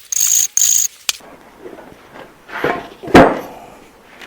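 Tools being handled in a workshop: two short scraping rattles in the first second, then a loud metal clunk about three seconds in as a heavy tool is set down.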